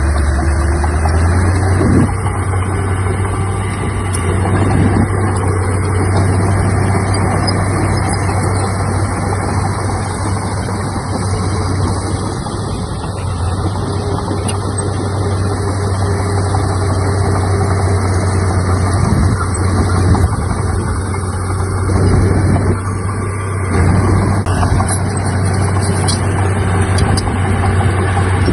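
Komatsu D31P bulldozer's diesel engine running steadily under work, with a few short knocks from the machine.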